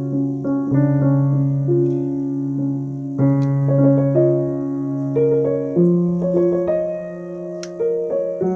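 Background piano music: a slow, gentle melody over sustained chords that change every couple of seconds.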